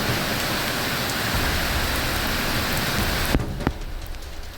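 Heavy rain pouring down in a steady, dense hiss. About three and a half seconds in it drops abruptly to a much quieter hiss with a few sharp drop taps.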